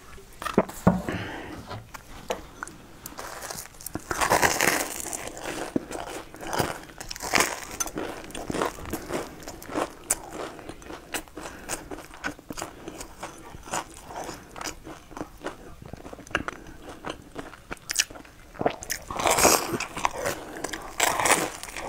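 Close-up eating sounds: biting and chewing a crumb-coated bread pastry dipped in cream, with many small crunches and clicks. The chewing is loudest about four seconds in and again near the end.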